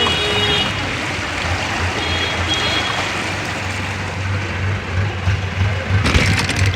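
Street traffic on a flooded road in rain: a steady wash of water and rain noise over a low engine hum, with brief high beeps about two seconds in and a short clatter near the end.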